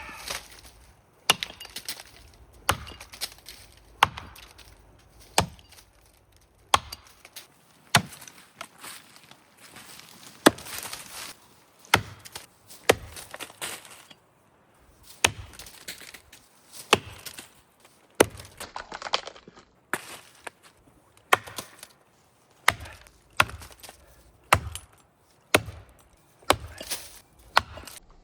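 Axe chopping into a standing maple trunk, cutting the undercut: a steady series of sharp strikes, roughly one every second or so, each blade bite followed by a brief crack of wood.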